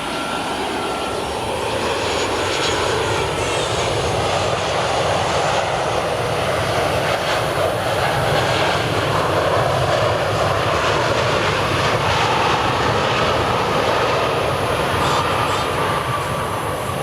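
Boeing 737-800's CFM56-7B jet engines on a landing pass: a steady rush of jet noise that grows louder over the first few seconds, holds, and eases slightly near the end, with a faint high whine running through it.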